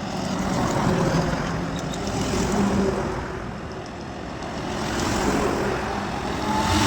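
Highway traffic with trucks passing: engine and tyre noise that swells and fades as each vehicle goes by.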